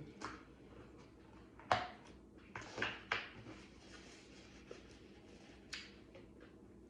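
Quiet eating and handling sounds while a burrito is eaten: a few short smacks and crackles, the loudest a little under two seconds in, a cluster around three seconds, and one more near the end.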